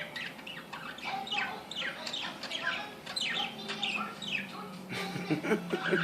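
Pet parakeets chirping and chattering: a fast, continuous stream of short, high, downward-sliding chirps.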